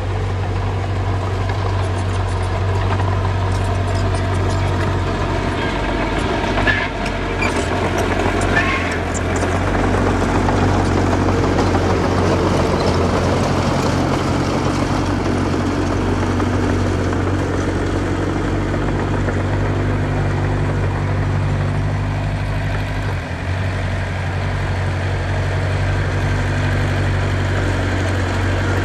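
Diesel engine of a small bulldozer running steadily under light load, with a few short squeaks about seven to nine seconds in.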